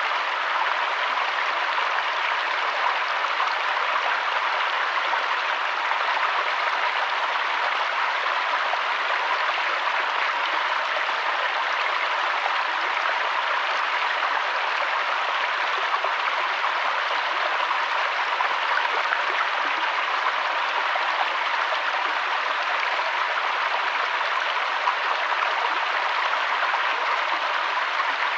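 Steady rushing of flowing river water, an even hiss with no breaks or changes.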